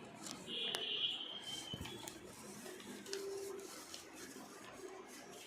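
Paper being handled and creased while an origami flapping bird is folded: faint crinkles and clicks. A high, steady tone sounds from about half a second in for just over a second, and a short lower tone follows about three seconds in.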